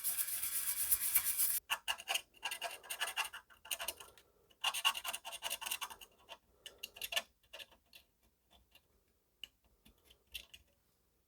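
Scratching and scraping on a circuit board in quick bursts of rapid strokes, thinning out after about seven seconds to a few light ticks.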